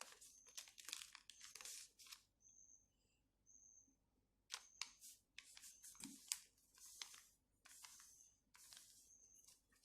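Faint rustling and creasing of a sheet of paper being folded by hand, in short scraping strokes, with a pause of about two seconds near the middle.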